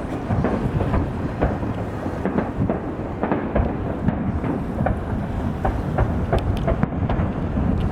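Aerial fireworks bursting in quick succession: a continuous low rumble of booms with many sharp cracks, several a second.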